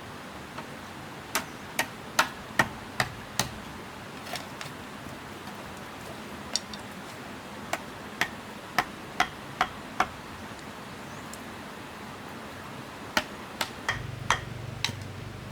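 Three runs of sharp knocks, five or six to a run at about two to three a second, like steady hammer or tool blows. A low rumble comes in near the end.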